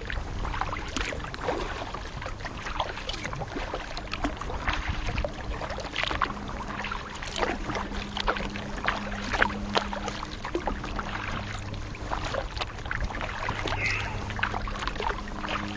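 Kayak paddle dipping and splashing, water dripping off the blades in many short irregular splashes.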